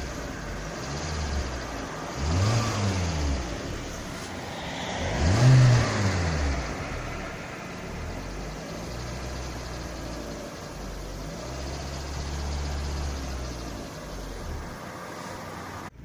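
Lada Kalina 2's hot VAZ-21126 1.6-litre 16-valve engine running while the car is driven, with two louder swells that rise and fall in pitch a few seconds in, then a steady run. It is being listened to for a tapping under load when hot, which was first taken for a knocking hydraulic lifter and was later traced to the alternator belt.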